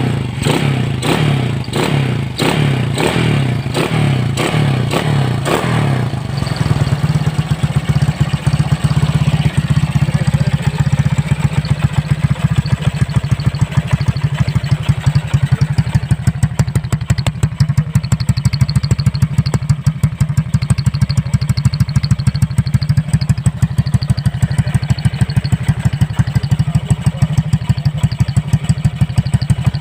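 Motorcycle with an aftermarket exhaust, its throttle blipped quickly about twice a second for the first six seconds, then settling into a steady, evenly pulsing idle.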